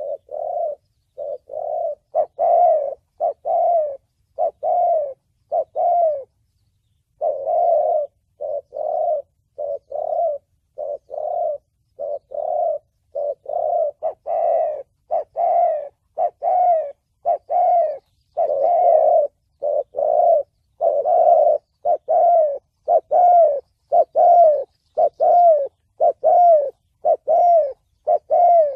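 Spotted dove cooing: a long run of short, repeated coos, about two a second, with one brief pause about six seconds in. It is the 'thổ bầu' call that Vietnamese bird-trappers play to lure wild doves.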